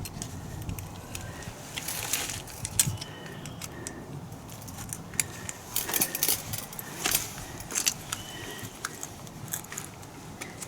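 Metal tools and small metal parts clinking and jingling, an irregular string of sharp clicks and light rings.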